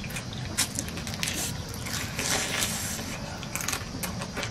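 Close-up eating sounds of a man biting and chewing fried crab: a run of crunchy, crackling chews with wet mouth noises.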